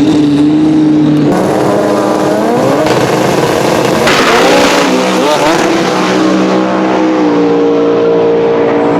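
Drag race car engines running at idle, with a few short revs that rise and fall in pitch, and a louder rushing noise about four seconds in.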